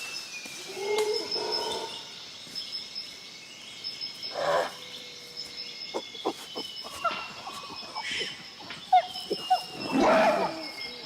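Mixed bird and animal calls: long falling whistles, short chirps and a few louder harsher calls, over a steady high-pitched tone.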